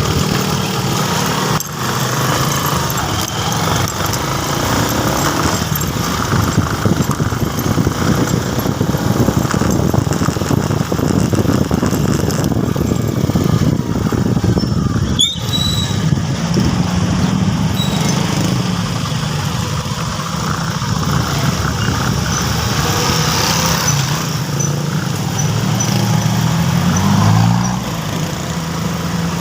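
Motorcycle engine running under way, with road and wind noise; the engine pitch climbs as it revs up near the end. A short high squeal sounds about halfway through.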